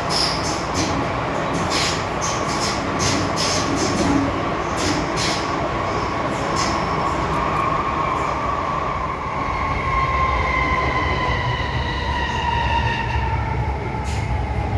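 MTR M-Train running on the rails with a steady rumble, clicking over rail joints for the first few seconds. In the second half the traction motors' whine comes in and slowly falls in pitch as the train slows.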